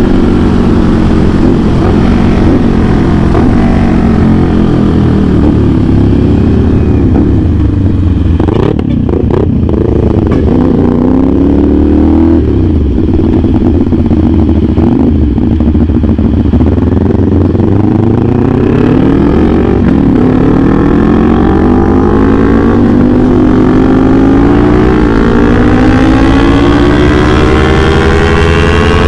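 CFMOTO 450SR S parallel-twin engine through an aftermarket AR exhaust, ridden on the road: the engine note rises and falls again and again as the throttle opens and eases off. There is a brief throttle cut about nine seconds in, followed by long rising pulls.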